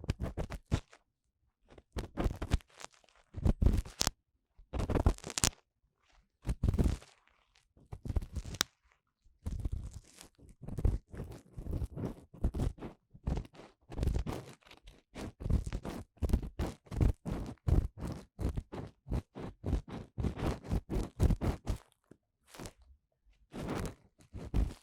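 Ear-cleaning tool scraping and rubbing inside the ear canal of a 3Dio binaural microphone, giving crunchy, scratchy strokes. They come in scattered bursts at first, then in quick repeated strokes from about ten seconds in, pausing briefly near the end.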